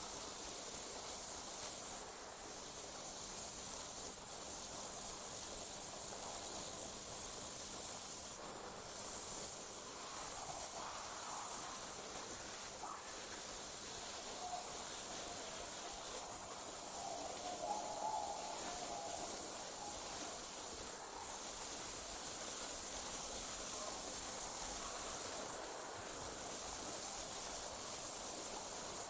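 A chorus of night insects trilling steadily at a high pitch, the sound dropping out briefly every few seconds.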